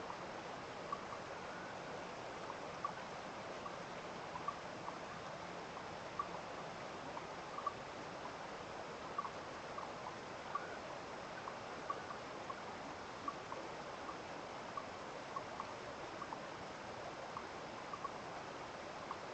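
Steady rush of flowing water, like a stream, with short, sharp high ticks scattered irregularly through it, roughly one a second.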